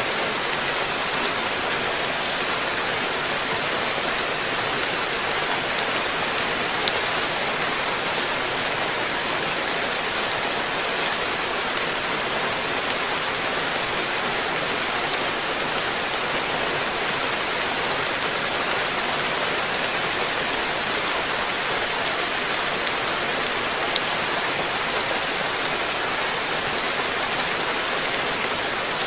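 Steady rain falling on a garden pond's water surface and the plants and decking around it, with a few sharper drop clicks close by.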